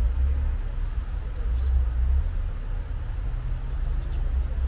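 Birds chirping in short, scattered high calls over a low, uneven rumble.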